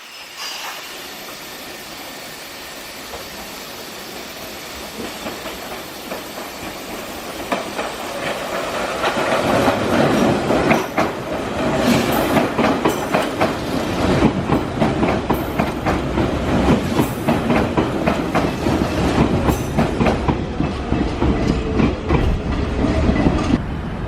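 Electric commuter train running along the station track, its wheels clacking over rail joints. It grows louder about a third of the way in and stays loud, with a steady rumble under the clacks.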